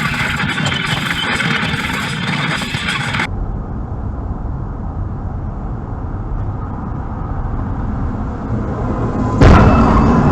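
Car road and engine noise as heard from a dashcam, one clip giving way to another with a steadier low rumble about three seconds in. Near the end comes a sudden loud bang that fades out, the sound of a vehicle collision.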